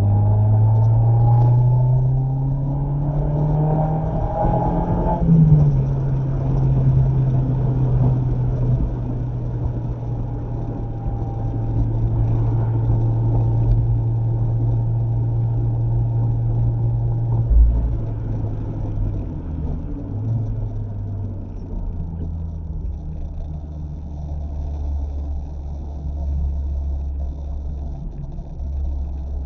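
Mazda MX-5 ND's four-cylinder engine heard from the car while driving. It revs up through the gear for about five seconds, drops in pitch at an upshift, and holds a steady cruise. About seventeen seconds in there is a low thump, and then the engine settles lower as the car slows.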